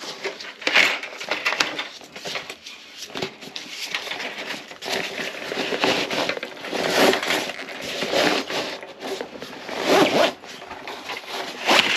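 Irregular scraping and rustling, a run of zipper-like strokes from something being handled.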